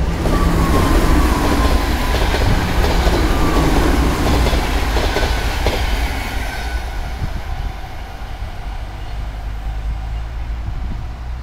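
NS intercity train running past, its wheels clattering on the rails with a falling whine. The sound fades after about seven seconds as the train draws away.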